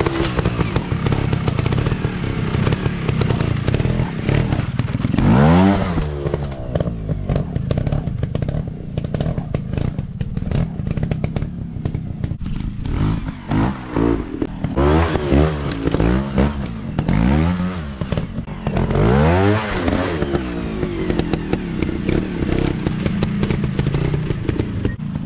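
Dirt bike engines revving up and dropping back again and again in short throttle bursts, the pitch climbing and falling many times, with knocks and rattles between the revs.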